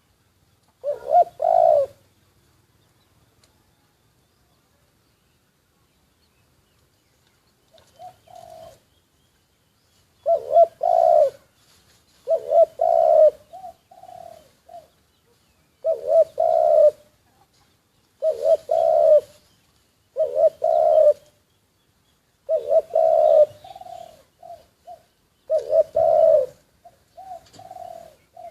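Caged spotted dove cooing, a short phrase every two to three seconds: each opens with a couple of loud, deep coos and trails off into softer notes. There is a pause of several seconds after the first phrase.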